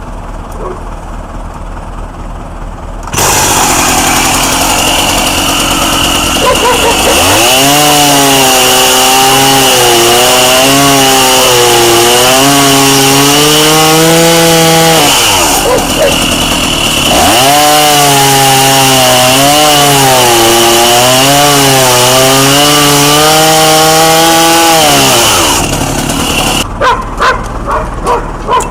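Two-stroke chainsaw at full throttle, making two long cuts through wood; its engine note drops and wavers under load during each cut, with a short lull between them. It cuts out near the end.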